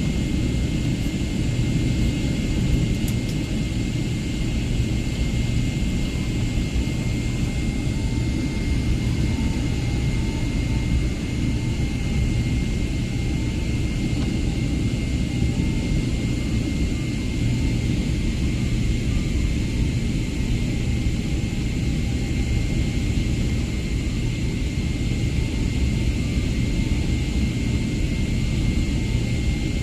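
Steady jet airliner noise: a dense low rumble with a thin, even whine above it, unchanging throughout.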